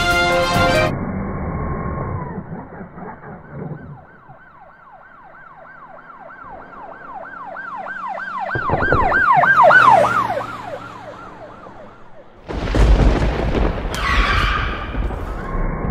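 Brief music at the start. A few seconds in, a siren begins a fast up-and-down yelp that grows louder, peaks about ten seconds in, then fades. Near the end comes a loud rushing noise with a falling electric-motor whine as a Traxxas Rustler RC truck drives across the grass.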